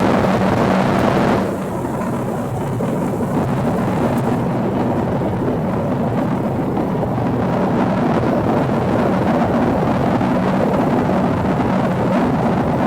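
Steady, loud rumble of airflow and engine noise inside the cabin of an Embraer ERJ-145 regional jet on approach, with the higher frequencies dropping away about a second and a half in.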